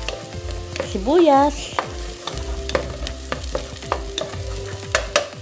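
Chopped garlic and onion sizzling as they sauté in hot oil in a metal pot, with a wooden spoon stirring and knocking against the pot in many sharp clicks.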